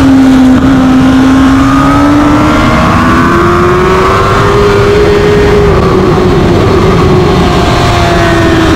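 2021 Kawasaki ZX-10R inline-four engine at full throttle in third gear. It revs up steadily to about 11,000 rpm over the first five seconds, then the pitch sinks as the rider brakes and changes down to second. Heavy wind noise rushes over the onboard microphone throughout.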